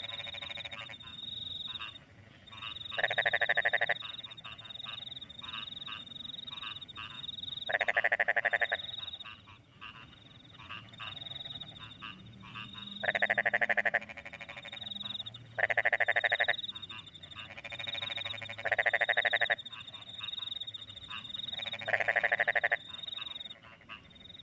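Rice-paddy frogs calling after rain: loud, rapidly pulsed croaking calls about a second long, repeating roughly every three to five seconds, about seven in all. Behind them runs a steady high-pitched chorus of crickets and smaller frogs.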